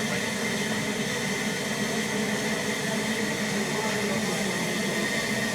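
Ffestiniog Railway narrow-gauge carriage running along the track: a steady, even rumble and hiss of wheels on rails with a faint constant whine.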